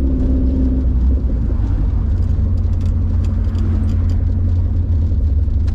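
A 1992 Subaru Sambar kei truck underway: a steady low engine and road rumble heard from inside the cab.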